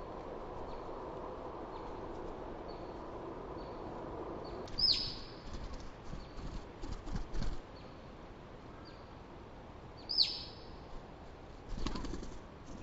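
Wild birds calling, with short high chips repeating in the first few seconds and two loud downward-sweeping calls about five seconds apart.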